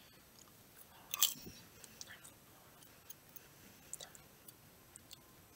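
Someone chewing popcorn: a short louder crunch about a second in, then faint scattered crunching clicks.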